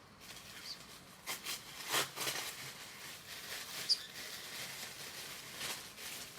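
Paper rustling and crinkling in short bursts as a small wrapped package is opened, with a single short high chirp from a pet bird just before the four-second mark.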